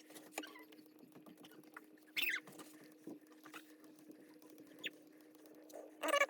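Faint handling clicks under a steady low hum, with a short hiss from a trigger spray bottle of gel rust remover about two seconds in. Squeaking starts near the end.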